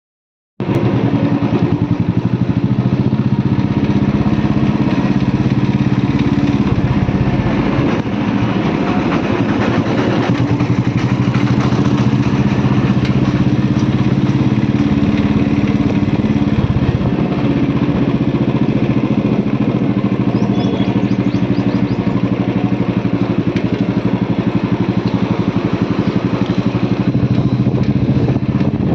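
Royal Enfield Bullet motorcycle's single-cylinder engine running steadily with an even, rapid beat.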